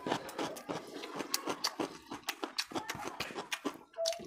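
Close-miked wet chewing and lip smacking of rice and fish curry, a quick irregular run of sharp mouth clicks several times a second.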